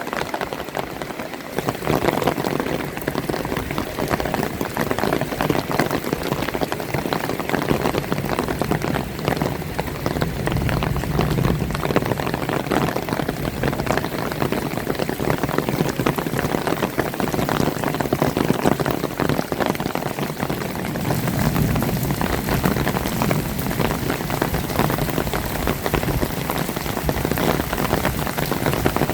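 Heavy rain falling steadily, a dense patter of drops hitting surfaces, growing louder about a second and a half in.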